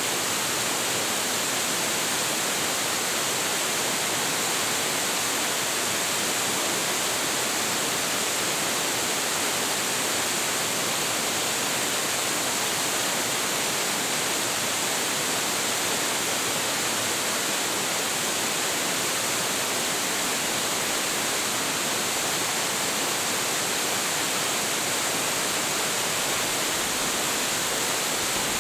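Large waterfall pouring: a steady, unbroken rush of falling water, with most of the sound in the upper range and little low rumble.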